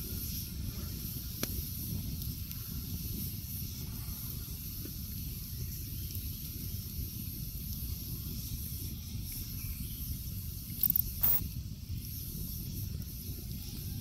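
Campfire with wet wood on it, hissing steadily, with a couple of sharp cracks about eleven seconds in.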